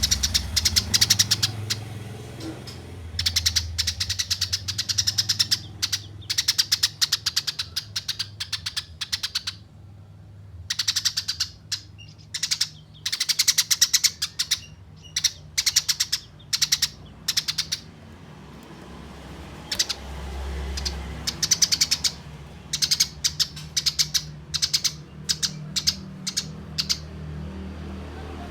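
Eurasian tree sparrows giving fast, harsh chattering calls in repeated bouts of a second or two with short pauses between, the long chatter of sparrows in a fight. A steady low hum runs underneath.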